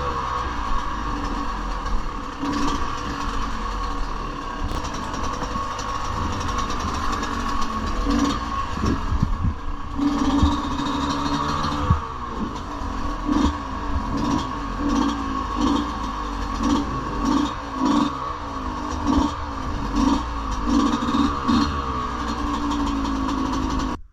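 Yamaha 125cc dirt bike engine running, its sound swelling and dropping roughly once a second through the second half as the throttle is worked.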